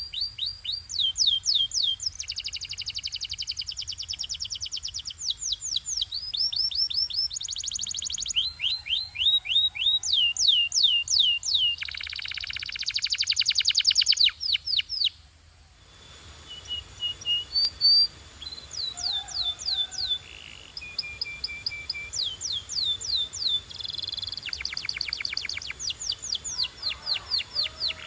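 Domestic canary singing: fast trills of repeated downward-sweeping notes, changing from one trill to the next. A denser, buzzier roll comes about halfway through, followed by a brief dip. The song then goes on in shorter trilled phrases.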